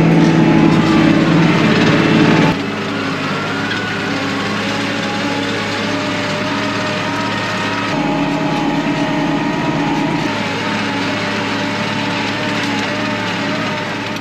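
KIOTI NS6010 compact tractor's diesel engine running steadily while it pulls a chisel disc harrow through the soil. The engine drops in level and its pitch shifts about two and a half seconds in, and it fades out near the end.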